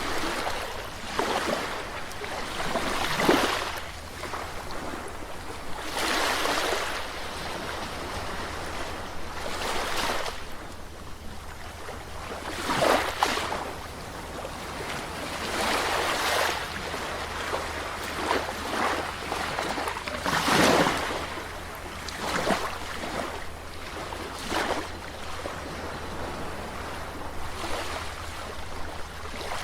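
Small sea waves breaking and washing on a shore, a surge every few seconds, the strongest about 3, 13 and 20 seconds in, over a steady low rumble.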